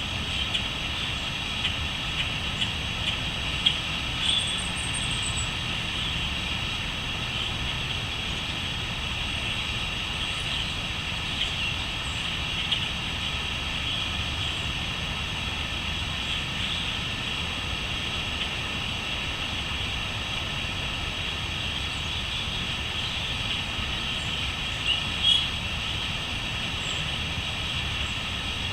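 Crickets chirring in a steady, high-pitched chorus, with a few brief bird calls about four seconds in and again near the end, over a low steady rumble.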